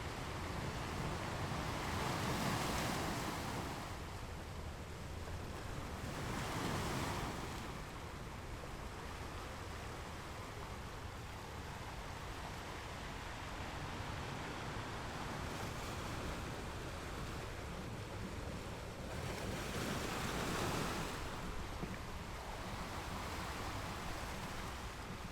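Sea waves breaking on rocks, a steady wash of surf with a low rumble, swelling louder as waves crash a few seconds in, again about seven seconds in, and near twenty seconds.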